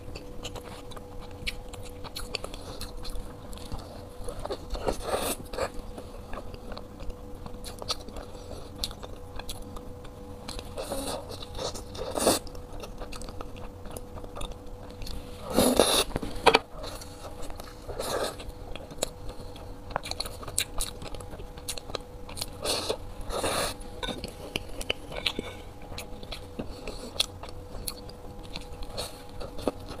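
Close-miked biting and chewing of black-crusted buns filled with runny chocolate, many small mouth clicks with a few louder bites, the loudest about halfway through. A faint steady hum runs underneath.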